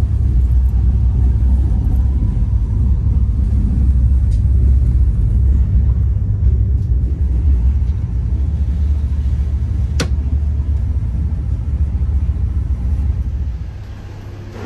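Steady low rumble of a moving vehicle, with a single sharp click about ten seconds in; the rumble drops off near the end.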